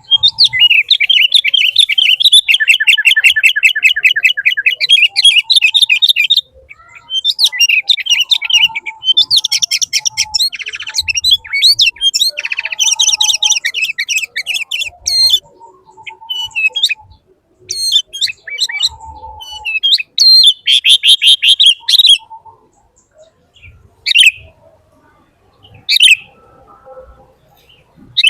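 A bird chirping close by in long bouts of rapid, repeated high chirps, then only a few short single calls near the end.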